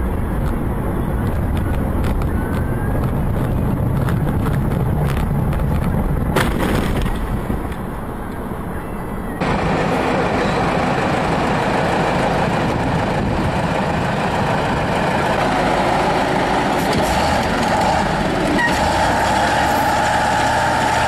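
Continuous vehicle running noise: engine and road noise, with the sound changing abruptly about nine seconds in as a different recording takes over.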